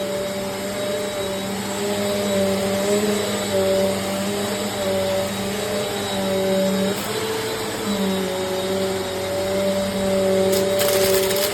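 Eureka AirSpeed bagless upright vacuum cleaner running with a steady motor hum and rush of air, its pitch shifting slightly every second or two, with a short burst of hiss near the end.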